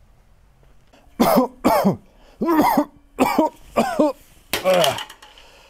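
A person coughing, about six short coughs in a row starting about a second in.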